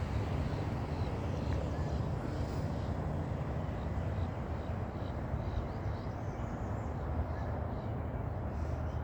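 Steady low rumble of wind on the microphone, with a run of faint short bird calls repeating several times a second through the middle.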